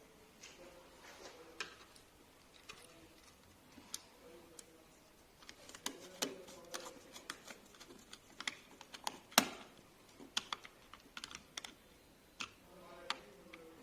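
Irregular light clicks and taps, sparse at first and coming thick and fast from about halfway, with one sharper knock a little after nine seconds in.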